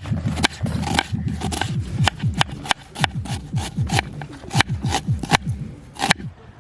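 A person chewing food close to the microphone: a quick run of crunches and clicks from a crunchy bite, thinning out near the end.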